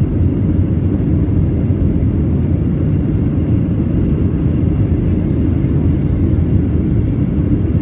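Steady, loud cabin roar of a Boeing 737-700 in flight, heard from inside the cabin: the deep, even rumble of the CFM56 jet engines and airflow on the fuselage.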